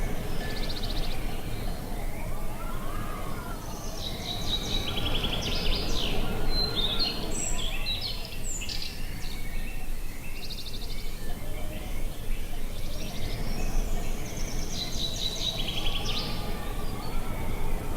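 Wind rumbling steadily while songbirds sing over it in bursts of quick chirps and trills, two longer bouts in the middle and near the end.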